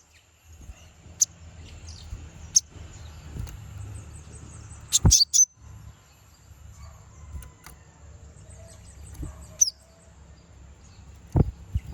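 Konin sunbird giving sharp, very high chirps several times, with a few quick runs of high notes, over a steady thin high-pitched whine and a low rumble.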